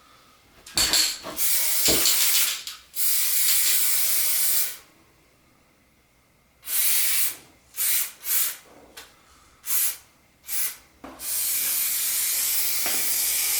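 Aerosol spray can spraying in bursts: a long spray, a string of short puffs, then another long spray. Two brief knocks come near the start.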